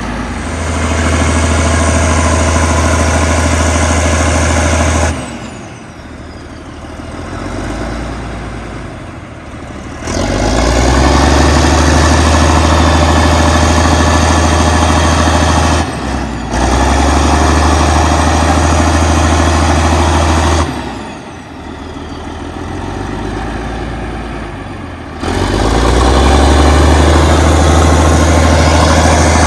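Allis-Chalmers HD-21 crawler dozer's diesel engine working hard with a strong low drone. Twice, about five and twenty-one seconds in, it falls to a quieter note for a few seconds, then pulls back up to full load.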